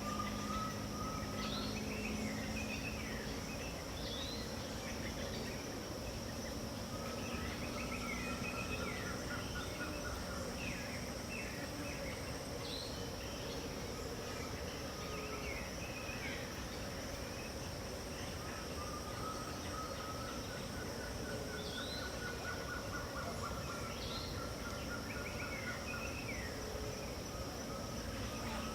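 Pantanal dawn chorus: many birds chirping and calling over a steady high insect drone. A long pulsed trill recurs several times, near the start, about a third of the way in and again in the second half.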